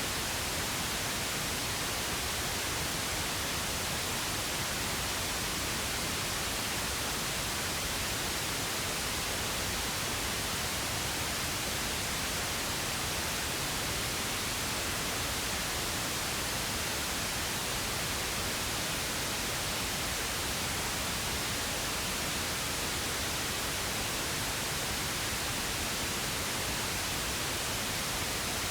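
Steady synthetic pink noise: an even, unbroken hiss with no change in level.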